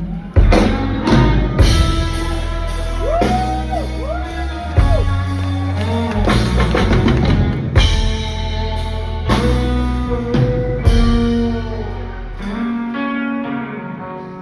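Rock music: an instrumental break with drums, bass and guitar, with a lead melody line that bends up and down in pitch.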